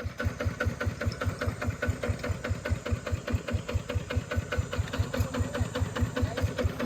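A small engine running steadily with an even chugging pulse, about six or seven beats a second.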